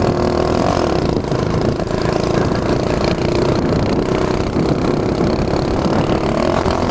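Honda CT70 mini bike's small four-stroke single-cylinder engine running steadily while the bike is ridden.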